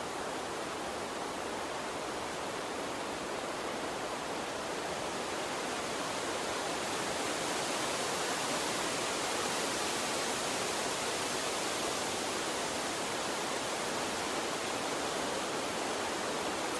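Steady rushing of a gentle water stream, an even hiss with no distinct splashes, swelling slightly in its higher part about halfway through.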